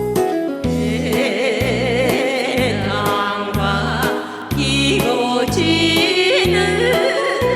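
Women singing a song with vibrato over a loud amplified backing track with a steady bass beat and percussion. The voices come in about a second in, after the instrumental intro.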